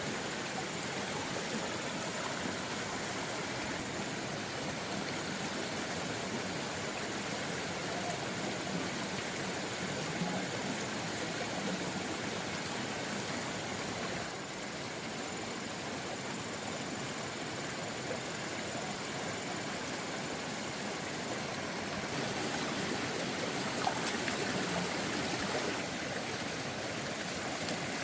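Steady rush of water, an even noise without breaks.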